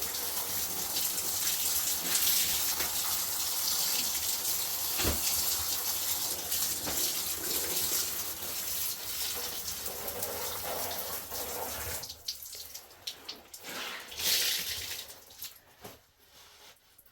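Water running steadily, then stopping about twelve seconds in, followed by a few light knocks and one brief louder gush.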